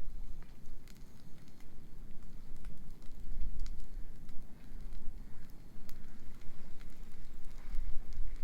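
Wood bonfire crackling, with scattered sharp pops, over a low, fluctuating rumble.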